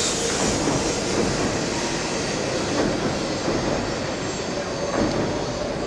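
E7 series Hokuriku Shinkansen train departing, its cars rolling past at close range with a steady rush of wheel-on-rail noise.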